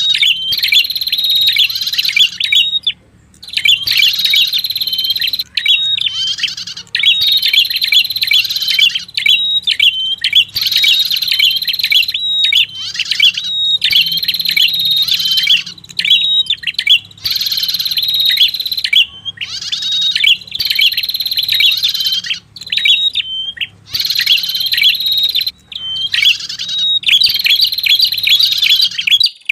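Recorded song of the red-headed prenjak, a tailorbird, played as a trapping lure call: fast, high, sharp chirping phrases repeated in bursts of a second or two with brief pauses, over a faint steady low hum.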